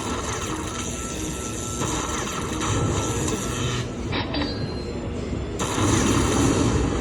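Lightning Link Moon Race slot machine running its free-spin bonus, with electronic spin sounds over a steady, noisy background din.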